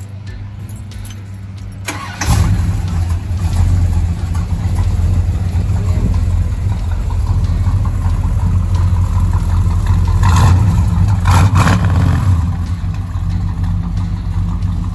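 A classic car's engine cranking and catching about two seconds in, then running loud, with two quick revs a little past the ten-second mark.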